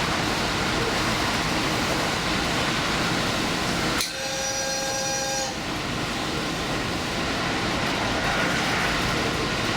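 Limited express train running, with steady rail and running noise, and one horn blast of about a second and a half about four seconds in.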